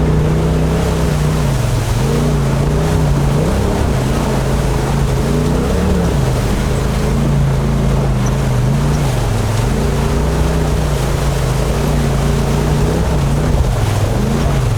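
2018 Polaris RZR XP Turbo S's turbocharged twin-cylinder engine running under changing throttle, its pitch dipping and climbing back every second or two. A steady rushing noise runs underneath.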